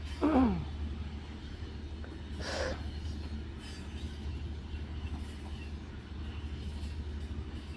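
Mauritania's long ore train running, a steady low rumble. About a third of a second in there is a short, loud falling cry. A brief hiss comes about two and a half seconds in.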